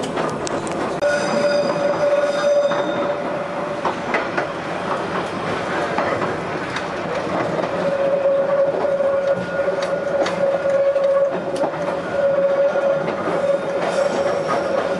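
Train running along the line, wheels clicking over rail joints, with a steady wheel squeal on the curves about a second in and again from about eight seconds on.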